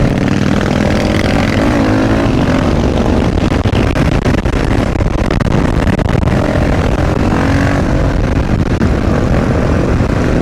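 Motorcycle engine running under way, its pitch rising and falling with the throttle and gear changes, with wind rushing over the microphone.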